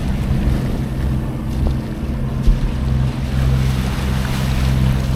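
A sailboat's engine running steadily under way while motor sailing, a low even hum, with water and wind noise over it. A single short thump about halfway through.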